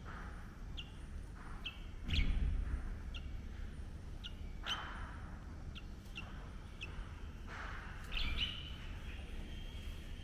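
Short, sharp bird chirps, about a dozen, repeated irregularly, each dropping quickly in pitch. A low rumble comes twice, about two seconds in and again near eight seconds, louder than the chirps.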